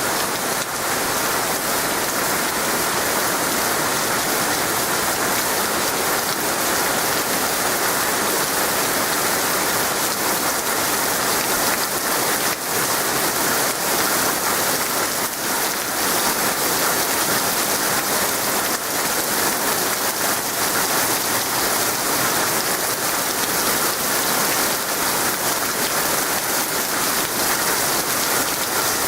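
Torrential thunderstorm rain pouring steadily, an even, unbroken downpour.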